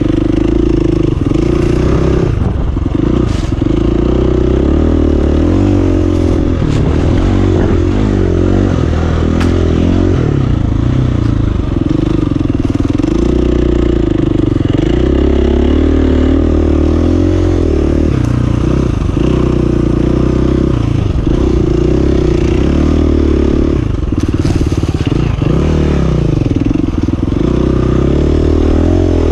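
KTM 350 EXC-F dirt bike's single-cylinder four-stroke engine running under riding load, its revs rising and falling over and over as the throttle is worked. A few brief clicks and clatters come through over the engine.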